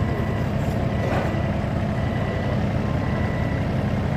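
Backhoe's heavy diesel engine running steadily.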